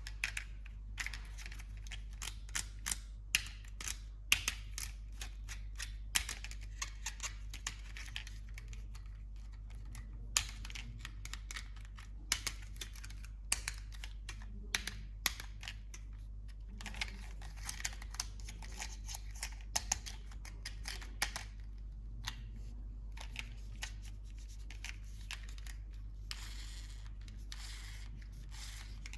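Irregular small clicks, snaps and rustles of plastic and cardboard packaging as a remote-control toy car is unboxed and handled, over a steady low hum.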